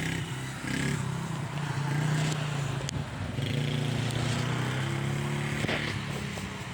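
Dirt bike engine running steadily, its note wavering slightly.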